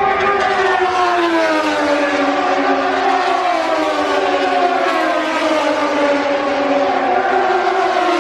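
Racing motorcycle engines heard across the circuit: a sustained, loud drone whose pitch slowly drifts down as the bikes run on.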